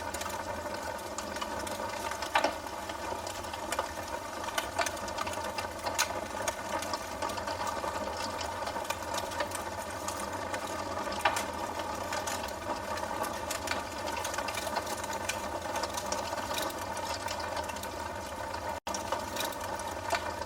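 Wood fire burning in a fireplace: a steady hiss with dense crackling and snapping, and louder pops about two seconds in and about eleven seconds in. The sound drops out for an instant near the end.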